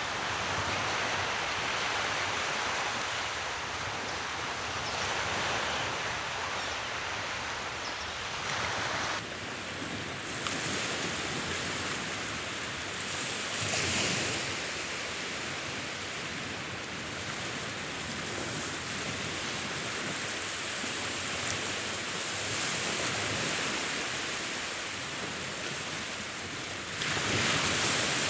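Sea waves surging and washing in a steady rise and fall, with a louder surge near the end.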